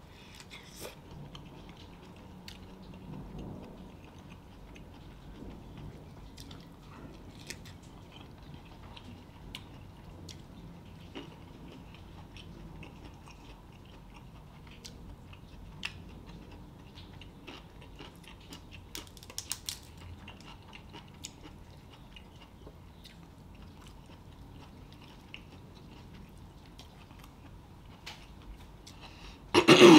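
Close-miked chewing of a bite of sauce-coated broccoli, with many small wet mouth clicks and smacks over a low steady hum. A short loud cough near the end, from the cayenne catching in the throat.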